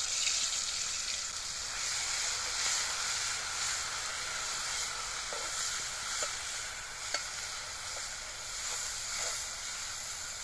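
Ground garlic and green chilli paste sizzling as it fries in hot oil in a metal pan, stirred with a metal spatula. A steady hiss, with a few light ticks of the spatula about five to seven seconds in.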